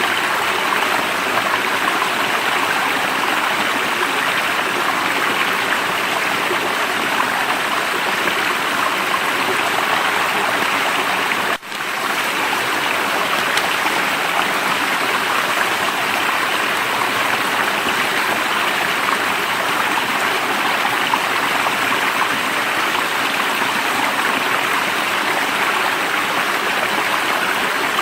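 Running water of a stream, a steady rushing with no break except a split-second dropout about twelve seconds in.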